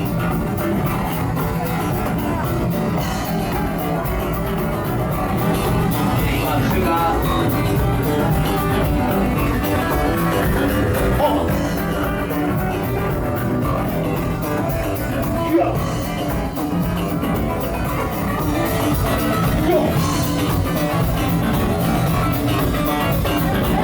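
Live band music with guitar, playing on without vocals.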